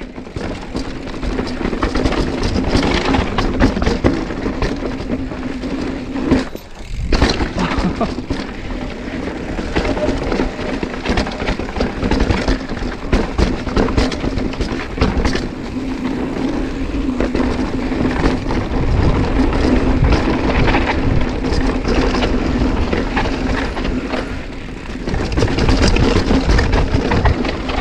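Mountain bike riding over rough trail: a steady rumble of tyres on dirt and rock with frequent clattering knocks. The knocks are chain slap against the frame, because the rear derailleur's clutch is switched off.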